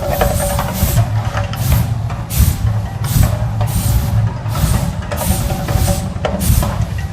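Volcano show's loudspeaker soundtrack: a deep, steady rumble with hissing bursts about every two-thirds of a second, over music.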